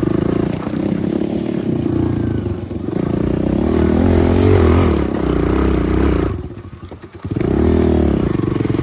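Pit bike engine running under throttle, its pitch rising and falling as it revs up and backs off. About six and a half seconds in it drops away sharply for under a second, then revs up again.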